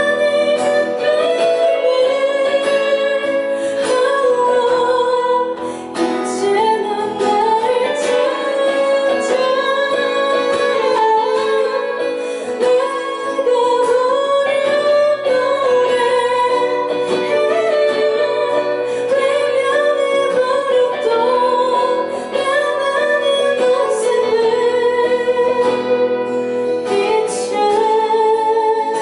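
Live performance of an indie pop song: a woman singing over guitar accompaniment.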